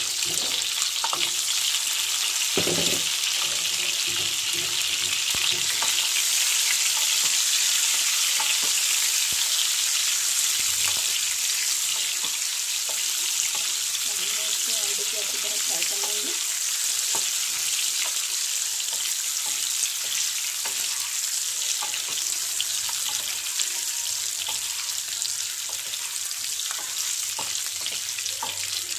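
Masala-coated boiled eggs sizzling steadily in hot oil in a non-stick kadai, with light knocks and scrapes of a wooden spatula as they are turned.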